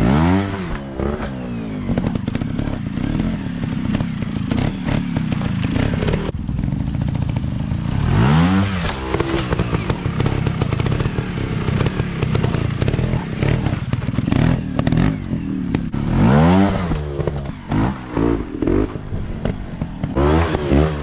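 Off-road dirt bike engines running and revving hard, the pitch rising and falling sharply in throttle bursts about a second in, around eight seconds in, around sixteen seconds in and near the end, with clattering knocks between.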